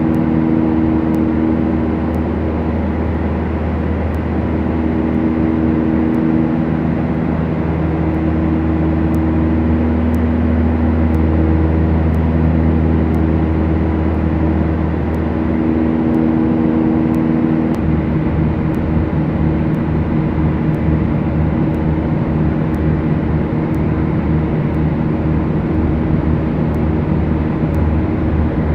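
Beechcraft Duchess's twin four-cylinder Lycoming piston engines and propellers droning steadily in flight. About two-thirds of the way through, the engine note changes and the low drone takes on a regular pulsing beat.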